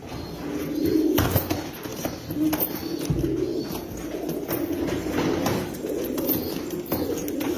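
Domestic pigeons cooing, several at once in overlapping low rolling coos, with a few sharp taps in between.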